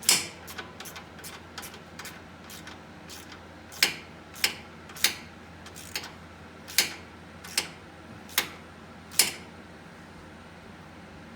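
Hand ratchet on an extension clicking as a bolt is turned down: a run of quick light clicks at first, then single sharper clicks about one every second.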